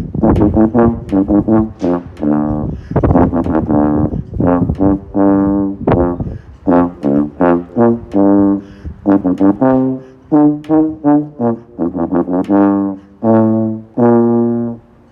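Solo brass instrument playing a melody one note at a time, the notes mostly short and separated, with a few longer held notes near the end.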